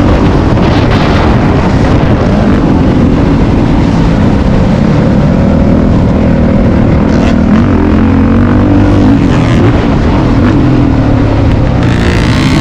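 Motocross dirt bike engine running hard on the track, its pitch rising and falling as the throttle opens and closes.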